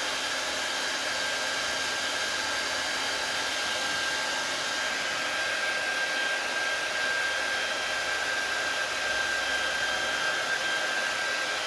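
Handheld hair dryer running steadily: a constant rush of air with a thin, steady whine on top.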